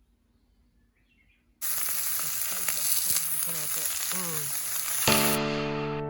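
Steak sizzling loudly in a hot pan, cutting in suddenly about a second and a half in. Music comes in near the end.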